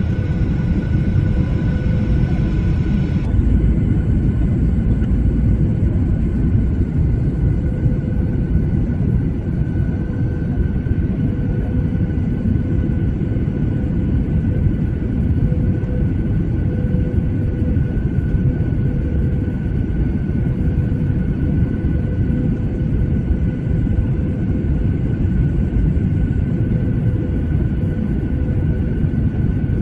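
Boeing 737 passenger cabin noise: the jet engines and airflow make a steady, loud rumble with a constant whine over it. A higher hiss drops away about three seconds in.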